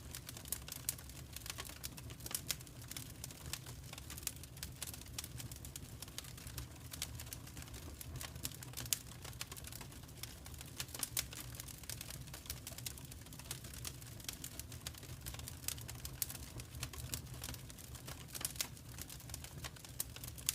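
Wood fire crackling in a fireplace: a dense, irregular stream of small sharp pops and snaps over a steady low rumble.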